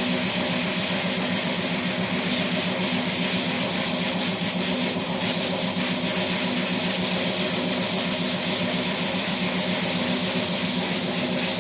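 Steady loud hiss over a low machine hum, running evenly without a break.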